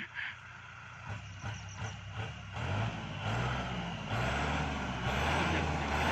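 Tractor engine running, its low drone building up about a second in and growing much louder near three seconds as it is revved or brought closer.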